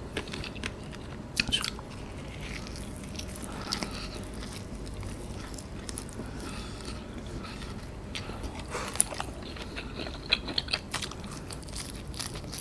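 Close-up eating sounds of a man biting and chewing battered fried chicken: scattered crunches and wet mouth clicks, with a burst of sharper ones near the end.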